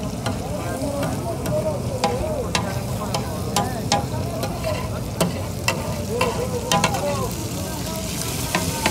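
Cubed bull liver sizzling on a large flat metal griddle while a metal spatula stirs it, scraping and clicking sharply against the griddle many times.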